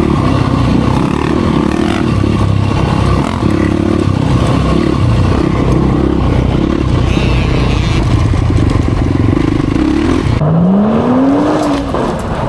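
Dirt bike engine running hard while riding, loud and rough, with rattling and scraping. Near the end it cuts to an engine revving up and easing back down.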